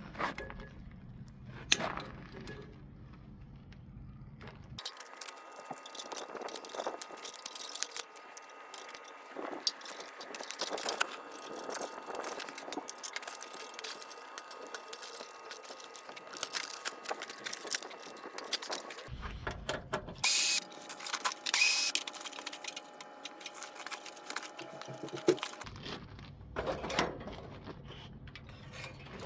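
Metal parts and hand tools clinking, clanking and scraping in irregular knocks while an air-conditioning unit is taken apart.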